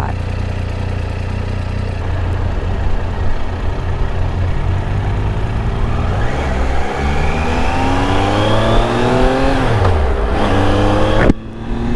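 Triumph Tiger 800 XRx motorcycle's three-cylinder engine running steadily, then pulling away and accelerating, its pitch rising through the gears with a shift about ten seconds in, and wind rush growing with speed. The sound breaks off abruptly near the end.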